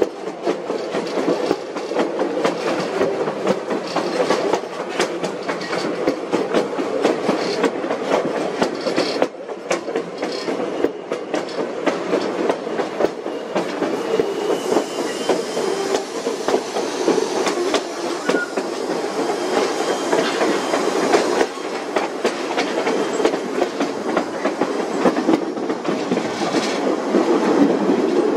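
Narrow-gauge White Pass & Yukon Route passenger train running, its wheels clattering over the rail joints with a steady rumbling rush. A brief faint squeal comes about halfway through.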